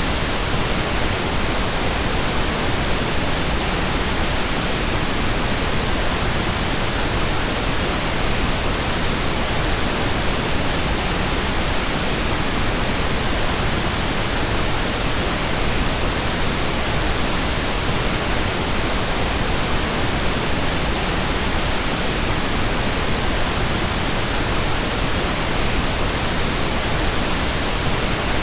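Steady, unchanging pink noise, an even hiss spread across all pitches.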